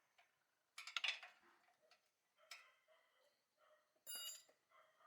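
Light metallic clicks and clinks of hand tools and small engine parts being handled, loudest about a second in, with a short high ringing note a little after four seconds.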